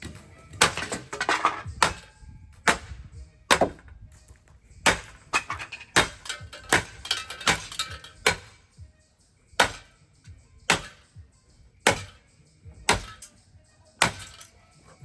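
A ceiling fan being smashed with repeated hard blows: a quick flurry of strikes, then single blows about a second apart.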